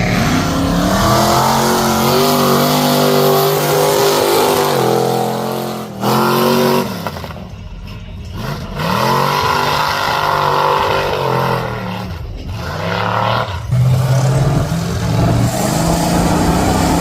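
Mud truck's engine revving hard in repeated bursts, the pitch climbing and falling again and again, as the truck, stuck in deep mud, tries to power its way out.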